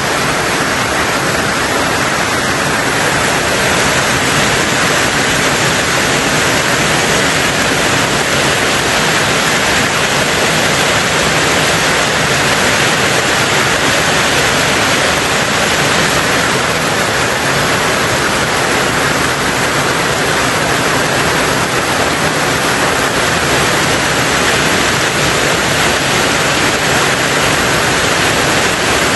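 Heavy rain falling on a tin roof: a steady, dense hiss with no single drops or knocks standing out.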